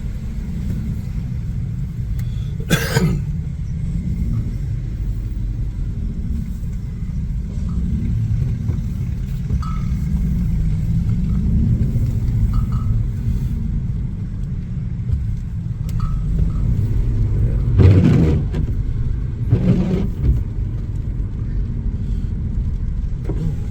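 Car driving, heard from inside the cabin: a steady low rumble of engine and tyres on the road, with three brief knocks or bumps, the loudest about 18 seconds in.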